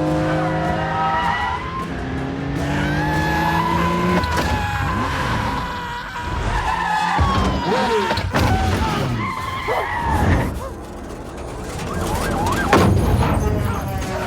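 Car-chase sound: a sports car's engine running hard with tyre squeals and skids, a sudden loud bang about 12 to 13 seconds in, and film music underneath.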